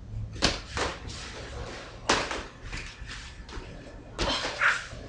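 Irregular thuds and knocks on a floor, about five in five seconds, from people moving through a workout's exercises.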